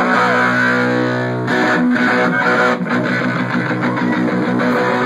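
Live rock band's electric guitar opening a song: one chord left to ring for about a second and a half, then steady rhythmic strumming with bass guitar underneath. The player says the guitar is not really in tune.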